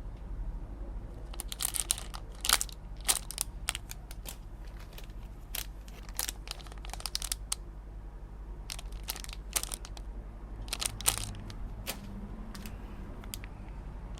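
Packaging crinkling and crackling in irregular bursts as it is handled and opened, over a steady low hum.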